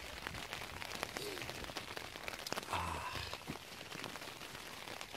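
Gentle rain falling on a Vango Banshee 200 tent's nylon flysheet, heard from inside the tent: a soft hiss scattered with many small drop ticks.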